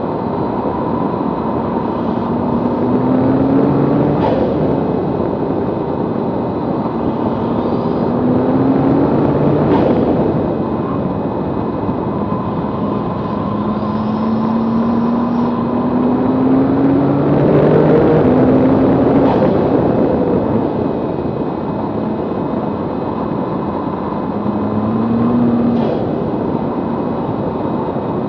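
Nissan GT-R's twin-turbo V6, tuned to 575 PS, pulling hard at track speed under loud wind and road rush, as heard from a camera mounted low on the outside of the car. The engine note climbs in about five pulls and drops back between them, with a few short sharp noises along the way.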